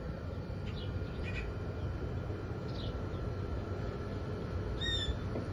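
Birds chirping in short high notes over a steady low background rumble, with a louder, fuller bird call near the end.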